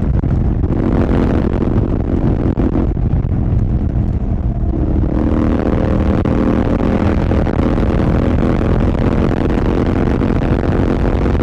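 Royal Enfield Continental GT 650's 648 cc parallel-twin engine running through an aftermarket Red Rooster exhaust at road speed. The note softens for a couple of seconds, then comes back fuller and brighter about five seconds in.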